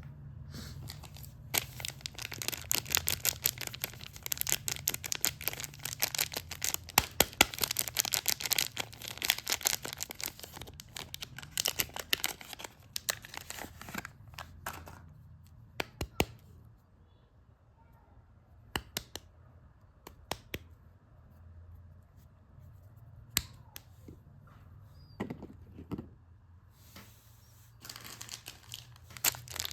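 Soap wrapping crinkled and torn open close up: a long run of dense crackling, then a quieter stretch with a few separate sharp clicks, then crinkling again near the end, over a low steady hum.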